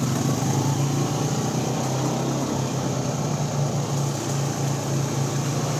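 Vehicle engine idling steadily, holding an even pitch without revving.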